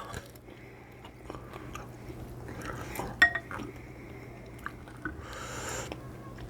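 Close-up eating sounds: a person chewing a mouthful of ceviche, with soft utensil clicks against the container and one sharper click about three seconds in, over a steady low hum.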